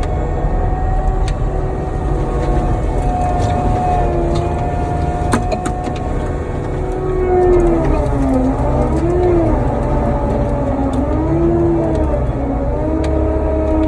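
Cat 279D3 skid steer's diesel engine and hydraulic mulcher head running steadily. Its whine dips and rises in pitch in the second half, as the load changes, with a few sharp ticks along the way.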